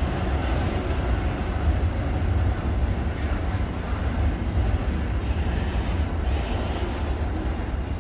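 Freight train wagons rolling past, a steady rumble of steel wheels on the rails as container wagons and then empty steel-coil wagons go by.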